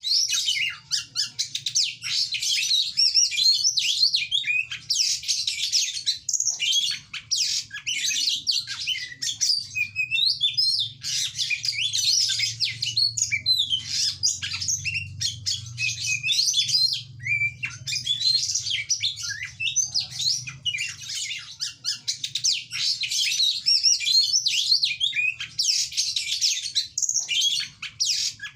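Oriental magpie-robin (kacer) singing non-stop: a rapid, varied stream of high whistles, trills and chatters with only brief pauses.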